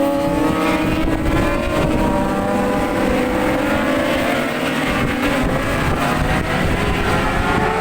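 A pack of 600cc supersport racing motorcycles running at high revs, several engine notes overlapping and slowly rising and falling as the bikes pass.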